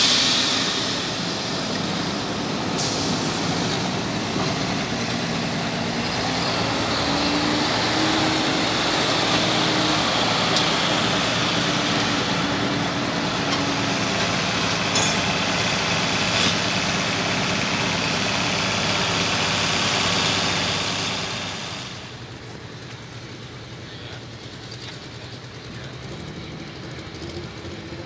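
Light limited super stock diesel pulling tractor making a pull at full throttle, a loud steady run that lasts about twenty seconds. Then the engine drops off to a much quieter running.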